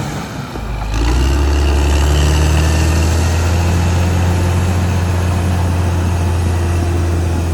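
Caterpillar D6R XL bulldozer's diesel engine running steadily with a deep, even drone. Near the start the sound dips for under a second, then picks back up.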